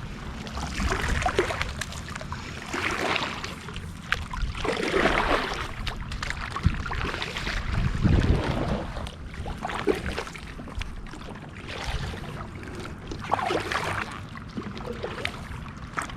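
Water sloshing against a kayak's hull in uneven swells every second or two as it moves along, with wind rumbling on the microphone.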